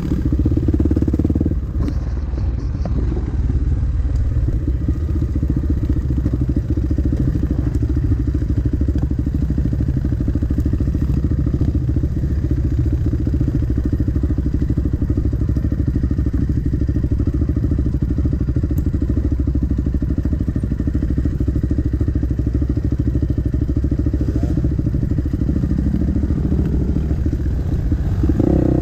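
Off-road dirt bike engine running steadily under way on a trail ride. The engine note shifts as the throttle changes near the start and again near the end.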